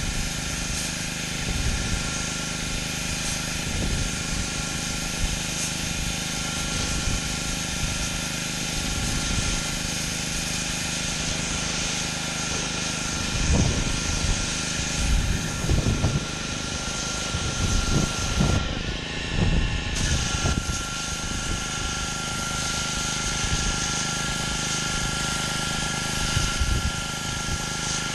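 Gas pressure washer running steadily, its engine and pump drone under the hiss of a high-pressure water spray on concrete. About two-thirds of the way through, the spray hiss cuts out for just over a second, then comes back.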